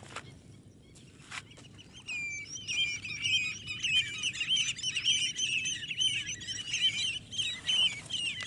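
A flock of birds calling together: many short, overlapping chirps and whistles that start about two seconds in and keep up densely. A few faint clicks come before the calling starts.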